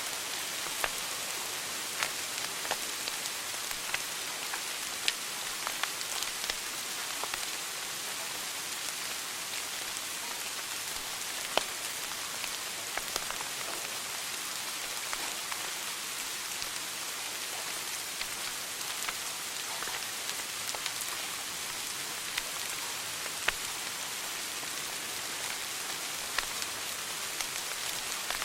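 Wood fire burning in a fireplace: a steady hiss with scattered sharp crackles and pops, a few of them louder.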